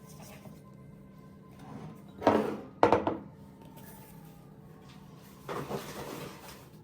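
Household handling noises in a small room: two sharp knocks about half a second apart, then a softer, longer scraping sound near the end.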